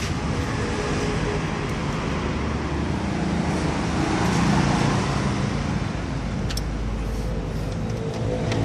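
Steady background road traffic noise, with a few faint clicks.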